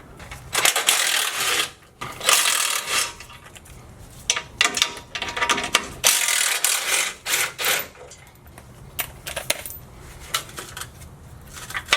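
Hand ratchet with a 13 mm socket clicking in repeated short bursts, loosening the skid plate bolts.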